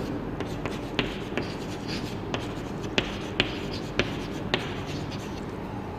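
Chalk writing on a blackboard: faint scratching strokes broken by several short, sharp taps as the chalk strikes the board.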